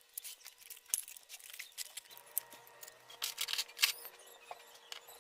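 Lego bricks being handled and snapped together: irregular small plastic clicks and rattles.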